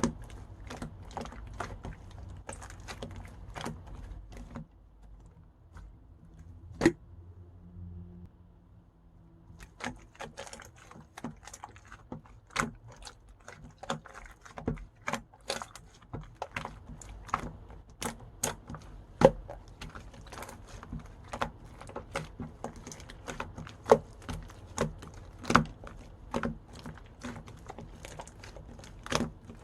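Pink pearl slime being squeezed and pressed by hand, making a run of small sticky clicks and pops. The clicks pause for a few seconds early on, with one sharp pop in the lull, then go on densely.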